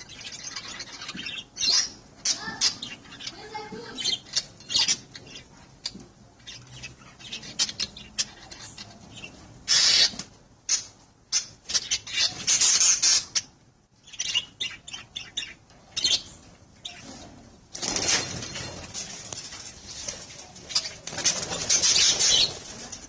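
Budgies and a parrot in a shared cage, calling and scuffling in repeated loud, shrill bursts with quieter chatter between: the male budgie defending against the parrot.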